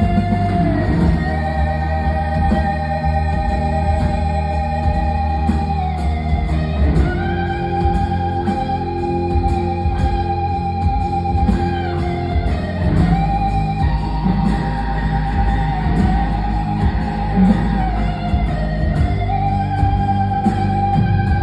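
Live rock band playing an instrumental passage: long held lead notes that slide from one pitch to the next every few seconds over a steady bass.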